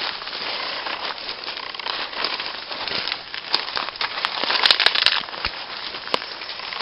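Dense rustling and crackling with scattered sharp clicks, loudest about five seconds in.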